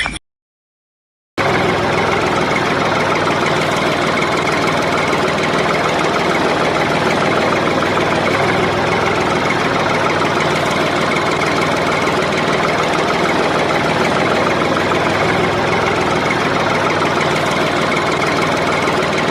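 A small engine running steadily at one speed with a rapid knocking texture, starting after about a second of dead silence.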